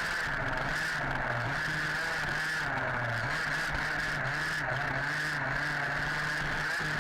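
Small two-stroke petrol engine of an HPI Baja 5B RC buggy running at high revs, its pitch dipping briefly several times as the throttle is eased and opened again.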